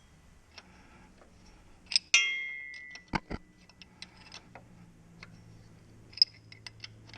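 Workshop clatter of metal on metal: a sharp clink about two seconds in that rings on for about a second, then two quick knocks and a string of light ticks and clicks near the end.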